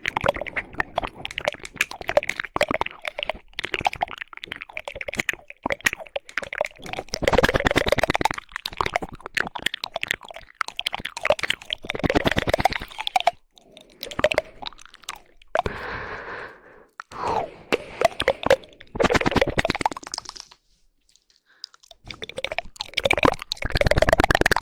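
Close-miked ASMR mouth sounds: rapid 'woodpecker' tongue clicking and wet mouth noises, coming in bursts of a second or two with short pauses and a brief silence about three quarters of the way through.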